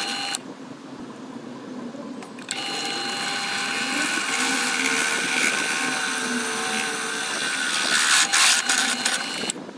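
Home-made belt grinder driven by an angle grinder running, with a steady high whine under a broad rushing noise. It is quieter at first and becomes loud about two and a half seconds in, then turns uneven and drops off near the end.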